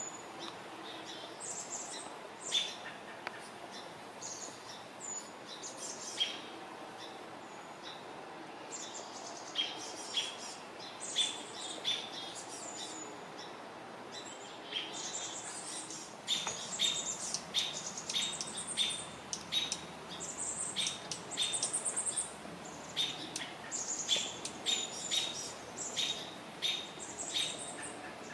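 Small birds chirping: short, high calls, scattered at first and then repeated about two a second through the second half, over a faint steady background hiss.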